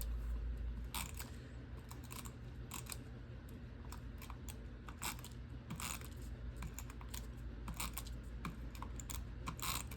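Irregular clicks and taps as a mini adhesive tape runner is pressed and drawn over cardstock pieces and the paper is handled. The runner is not laying its tape smoothly, which she takes for a sign that it is almost out.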